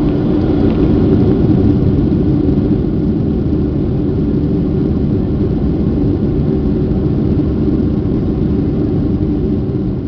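Boeing 737-700's CFM56 jet engines heard from inside the cabin during the landing: a loud, steady roar that peaks about a second or two in and eases slightly toward the end.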